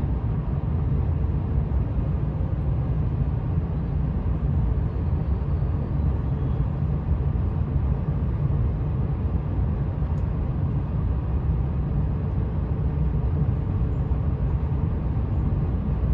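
Steady low rumble inside the upper-deck cabin of an E4 series Shinkansen creeping along a station platform to a stop.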